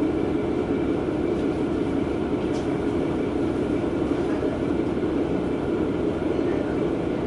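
Steady running noise of a single-car diesel railcar heard from inside the cabin: a constant engine and wheel drone with no breaks.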